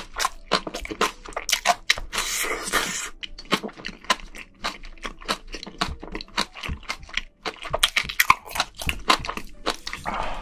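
Close-miked chewing of a mouthful of spicy scallops and bean sprouts, a dense, irregular run of quick crunching clicks and mouth sounds.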